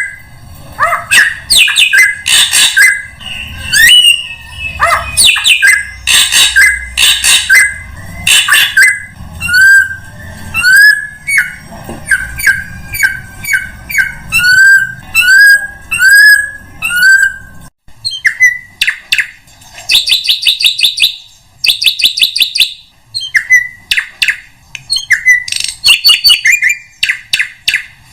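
Drongo (srigunting) calling loudly and constantly in a varied sequence: harsh rasping notes, then about the middle a run of short rising whistles repeated roughly once every two-thirds of a second, and later rapid buzzy chattering notes.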